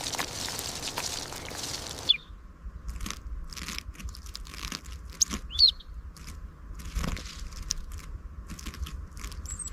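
Scattered crunching and clicking with a few short bird chirps; a steady hiss stops abruptly about two seconds in.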